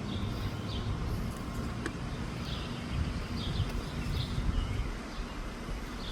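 Wind buffeting the microphone with a low rumble, while small birds chirp in short repeated calls.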